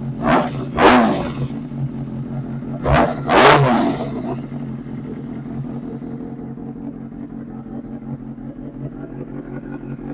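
Kawasaki ZX-6R inline-four sportbike engine with an SC Project aftermarket exhaust, blipped four times in two quick pairs in the first few seconds, then idling steadily.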